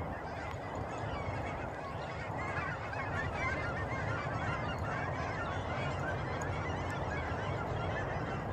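A flock of waterfowl calling, many short overlapping calls at once, over a steady low rumble.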